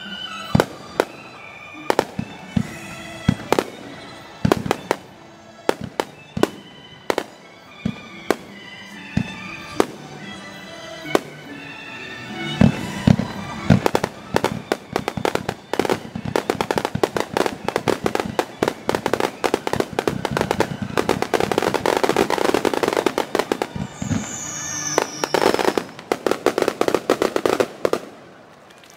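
Aerial fireworks shells bursting, sped up to double speed: separate bangs every second or so at first, building after about twelve seconds into a dense rapid barrage of bangs and crackle that stops near the end. A short falling whistle cuts through the barrage about 24 seconds in.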